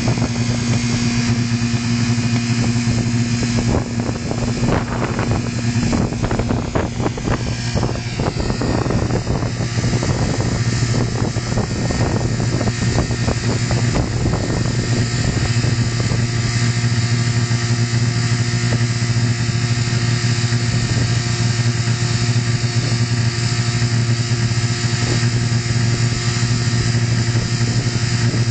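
Mazda 626 engine running flat out at one steady speed while it is being run to destruction. Irregular clattering is heard through the middle stretch.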